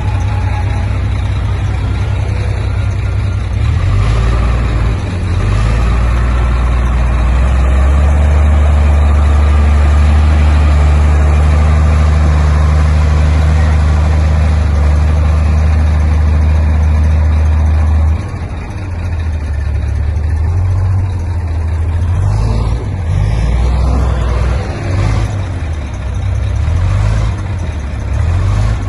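Heavy diesel engine of earthmoving machinery running, a deep steady drone that drops off suddenly about eighteen seconds in, then rises and falls unevenly.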